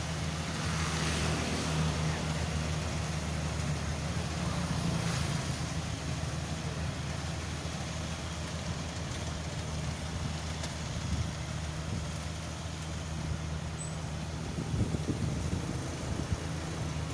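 Engine-driven rice threshing machine (a 'blower kombi' thresher-blower) running steadily: a constant low engine hum under an even rushing hiss.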